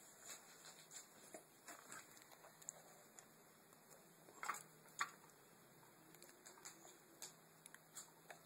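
Near silence with faint, scattered small clicks and light taps, two slightly louder ones about halfway through, over a faint low hum.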